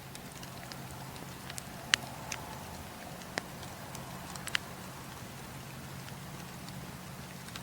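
Campfire crackling: a few sharp wood pops, the loudest about two seconds in, over a steady low hum and hiss.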